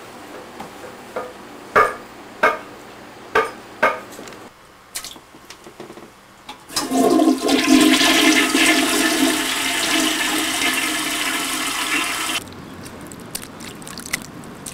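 A toilet flushing, a loud rushing of water for about five and a half seconds that stops abruptly. Before it come a few short sharp knocks.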